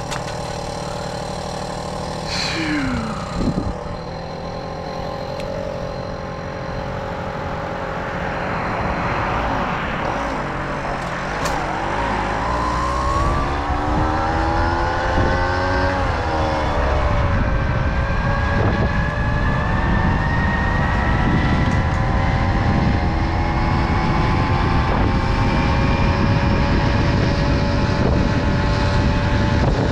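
Tomos Silver Bullet moped's small two-stroke engine running while riding. Its pitch falls and rises again in the middle, then climbs slowly as it speeds up. Wind rumble on the microphone grows louder from about halfway through.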